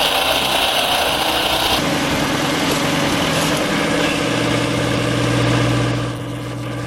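Engine-driven hydraulic wood-splitting machine running steadily. A hiss stops about two seconds in, and the machine's low steady hum grows stronger later on.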